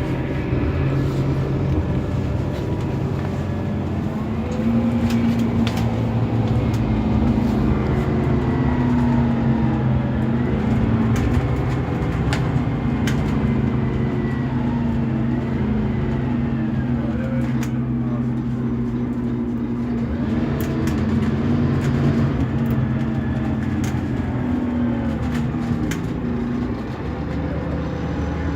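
Scania K280UB city bus under way, its Scania DC9 five-cylinder diesel running steadily with a low, slightly wavering drone. Scattered small clicks and rattles are heard throughout.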